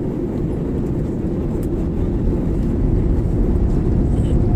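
Cabin noise of an Akasa Air Boeing 737 MAX during takeoff: a steady low rumble of the jet engines and rushing air, growing slightly louder.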